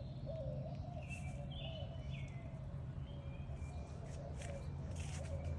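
Birds chirping in the background, over a steady low hum.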